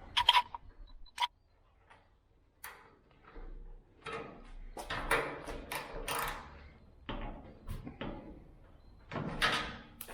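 Irregular knocks, clicks and short scraping sounds of hands and tools working on a steel truck hood panel, with a few sharp knocks and a longer scraping stretch about nine seconds in.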